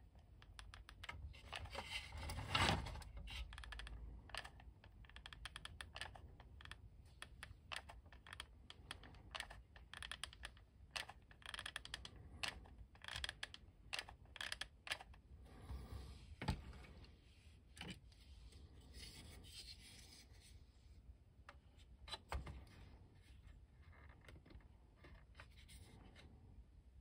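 Faint, irregular clicks, taps and rubbing from hands working a plastic toy tank and its track while gluing the track on, with one louder knock about two and a half seconds in.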